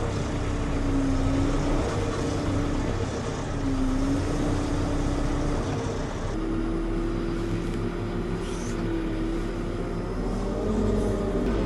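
Diesel engine of a JCB 3CX Pro backhoe loader running, heard from the cab, its pitch rising and falling with engine speed.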